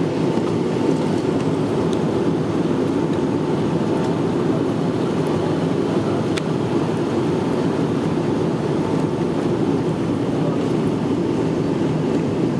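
Steady jet airliner noise from a Boeing 777-300ER, its GE90 engines and airflow, as a constant low rumble with a faint steady whine.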